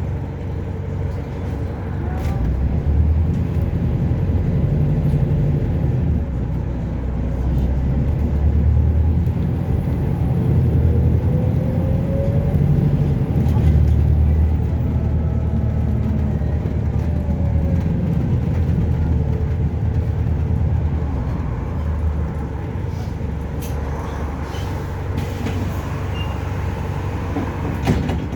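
Dublin Bus SG-class double-decker bus heard from on board: the engine and drivetrain rumble, swelling and easing as the bus pulls away and slows. A faint whine rises and falls about halfway through, and there is a short sharp knock near the end.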